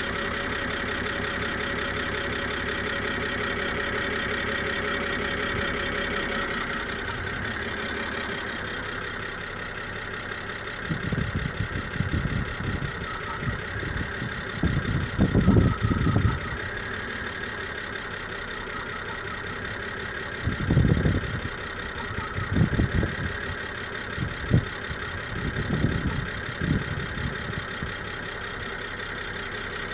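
BMW e92 325i straight-six idling with a misfire, with a steady high-pitched tone over the engine note. The owner hears this tone as a screech and suspects an air leak. Irregular bursts of low rumble come twice, about ten and twenty seconds in.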